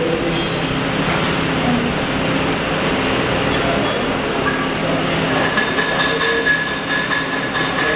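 Steady din of a busy welding workshop: a continuous crackling hiss with thin high-pitched whines coming and going over it.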